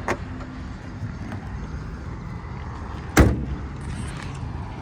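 A Mustang GT's aftermarket cowl hood being shut: one loud slam with a short ringing tail about three seconds in, over a steady low rumble.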